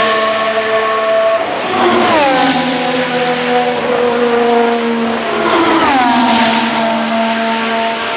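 2025 Formula 1 cars' turbocharged V6 hybrid engines at high revs, passing at speed. One car goes by about two seconds in and another about six seconds in, each engine note dropping sharply in pitch as it passes, then holding a steady high whine as it goes away.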